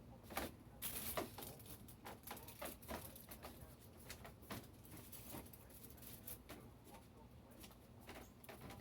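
Faint, irregular clicks and taps from a weather probe being handled and moved, with a few louder knocks about a second in.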